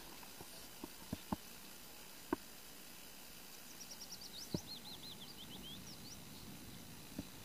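Outdoor background hiss with a few sharp taps or knocks scattered through; the loudest comes a little over two seconds in. In the middle, a small bird sings a quick series of repeated high notes for about two and a half seconds.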